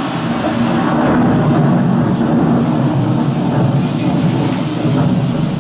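Thunderstorm sound effect: a continuous heavy rumble of thunder with rain noise, loud and steady.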